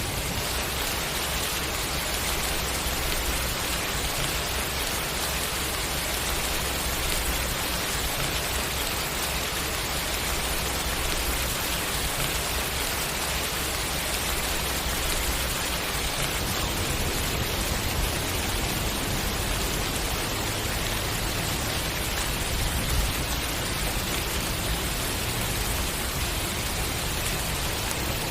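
Steady, even rain falling, a continuous hiss of drops with no breaks or changes.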